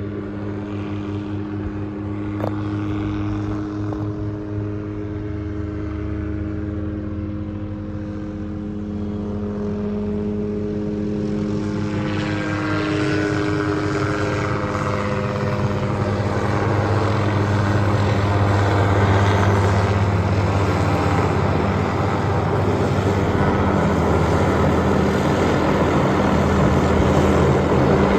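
Hughes 369D light helicopter running, its turbine whine and rotor beat steady, then growing louder and rougher from about twelve seconds in as the rotor noise builds.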